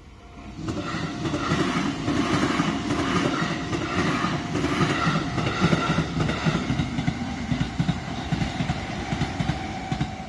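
An electric train passes close by on the four-track line at a level crossing, its wheels clacking rhythmically over the rail joints. It comes in about half a second in and dies away near the end, with a steady tone from the crossing running underneath.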